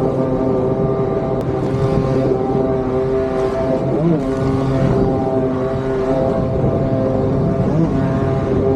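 Motorised surfboard (motosurf) engine running steadily at high revs, its pitch dipping briefly about four seconds in and again near the end.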